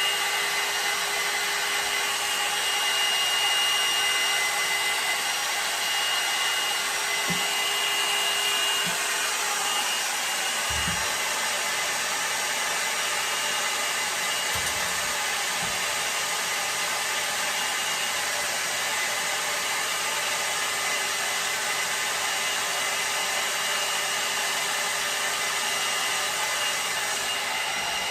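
L'ange hot-air blow dryer brush running steadily: rushing air with a motor whine that fades about ten seconds in, and a few brief low thumps.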